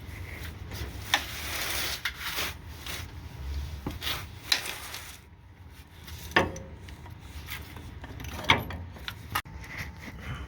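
Irregular sharp knocks and clicks with scraping and rubbing in between, four of the knocks standing out clearly.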